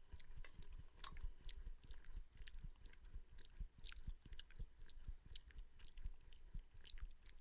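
A man chewing a mouthful of food close to a headset microphone, with many short, irregular mouth clicks.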